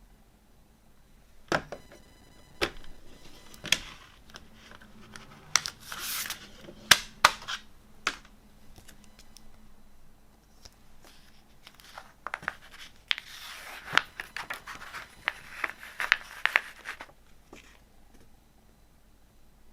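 A CD's plastic packaging being handled and unwrapped: a few sharp plastic clicks early on, then two long stretches of crinkling and tearing wrap, dotted with clicks and scratches.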